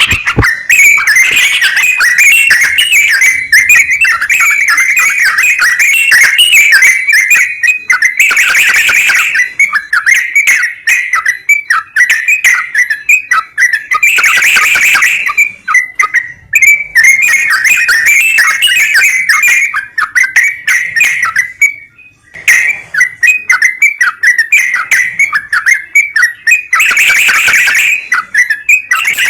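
Yellow-vented bulbul (trucukan) song: a steady run of quick, chirpy whistled notes, broken three times by louder, harsher bursts of chatter. It is played as a lure recording to prompt a caged bird that is reluctant to sing.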